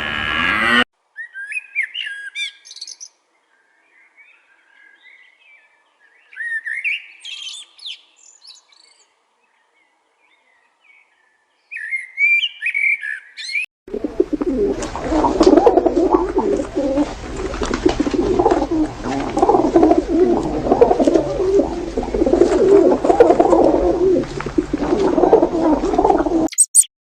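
Birds calling: short bursts of high chirps with pauses between them, then about halfway through a loud, dense chorus of many lower overlapping calls, like a flock, that stops abruptly near the end.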